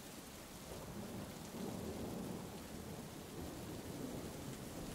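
Steady rain falling, with a low rumble of thunder that swells about a second in and rolls on through the rest.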